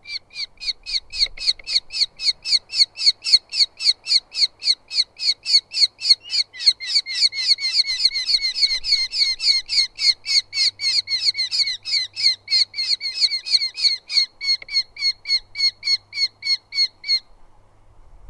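Eurasian hobby giving a long, rapid series of repeated calls at about four a second, stopping shortly before the end.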